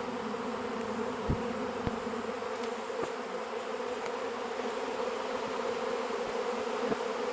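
A large honey bee swarm in flight, giving a steady, massed buzzing hum: the sound of a swarm coming down to settle on a box. A couple of faint taps are heard in the first two seconds.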